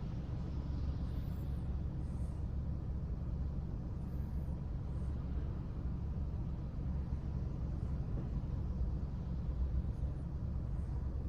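Car driving in city traffic: a steady low rumble of engine and road noise.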